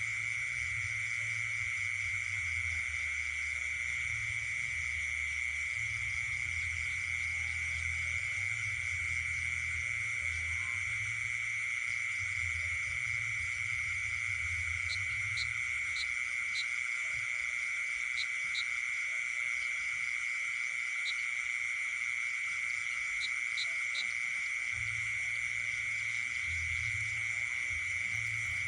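Night chorus of insects and frogs: a steady high insect trill runs throughout, with frogs calling. A few short, high chirps stand out about halfway through.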